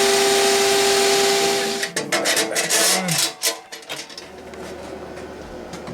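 Vacuum cleaner running with a steady whine, switched off about two seconds in and winding down, followed by a couple of seconds of clattering knocks as metal parts are handled.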